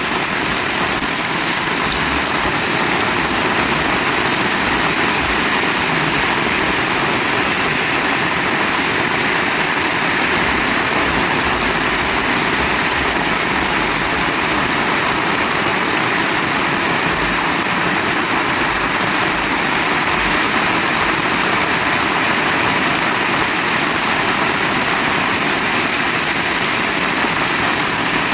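Heavy rain pouring steadily, a dense, even hiss with no break or change.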